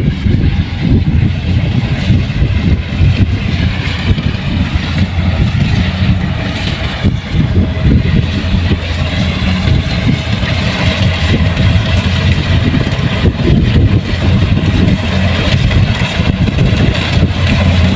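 Kubota rice combine harvester's diesel engine running steadily.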